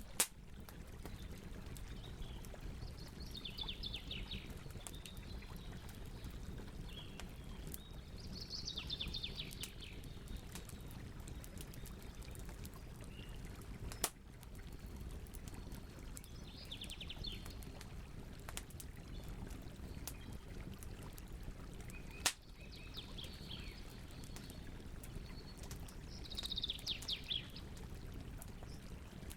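Campfire burning with a steady crackle and three loud, sharp pops from the wood. A bird sings short trilled phrases in the background every few seconds.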